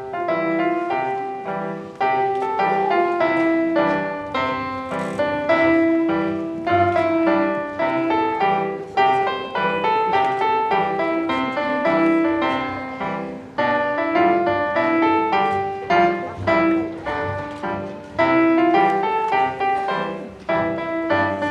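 Piano playing a tune with a steady rhythm, a melody over repeated chords in the bass.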